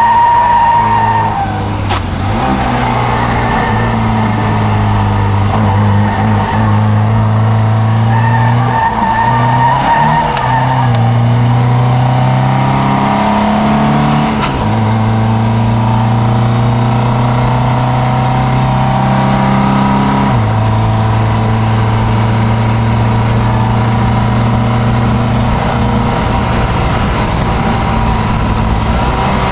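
Triumph Dolomite Sprint's 2.0-litre 16-valve slant-four engine pulling hard under load, heard from inside the cabin. The note steps and breaks several times as it is shifted through the gears.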